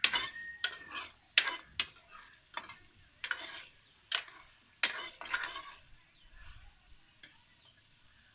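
A spatula scraping and knocking against a karahi as chicken is stirred while it fries in oil: about ten irregular strokes over the first six seconds, then only faint sound. The chicken has reached the stage of releasing its oil.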